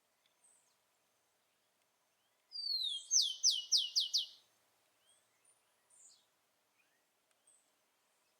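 Rufous-collared sparrow (tico-tico) singing one song about two and a half seconds in: a slurred whistle falling in pitch, then a quick series of about five downward-swept notes. Faint short chirps follow.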